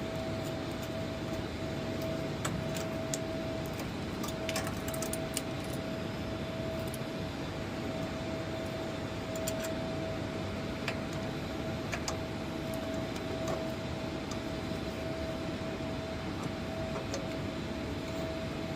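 Light metallic clinks and jingles of small metal engine hardware being handled, scattered and faint, over a steady hangar hum with a constant mid-pitched tone.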